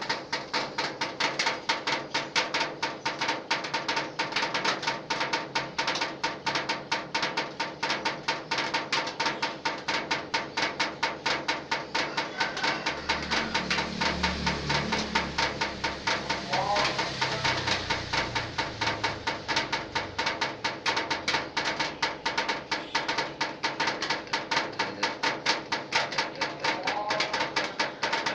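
Rainwater dripping from a leak onto a corrugated zinc roofing sheet: a fast, even stream of sharp metallic taps, rhythmic like a drum band. A low rumble swells under the taps about halfway through.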